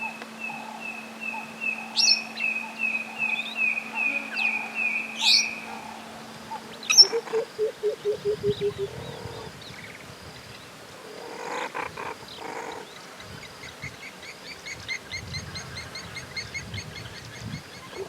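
Wild birds and other animals calling in the bush. A long run of evenly repeated high notes sounds over a steady low hum, then a fast, low, pulsed call starts about seven seconds in. Rapid high chirping follows in the second half, and the low pulsed call returns at the end.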